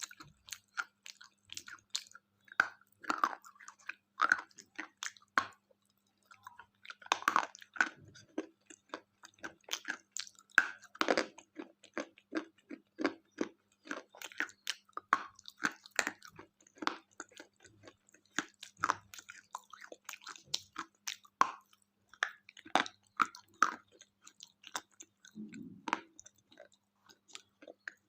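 Close-up chewing and crunching of a KitKat chocolate wafer bar: many irregular crisp crunches and bites. A faint steady hum runs underneath.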